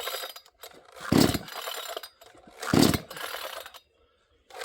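Dereal 62cc two-stroke chainsaw being pull-started on choke after running out of fuel: the recoil starter is yanked about every second and a half, the engine turning over briefly with each pull without catching.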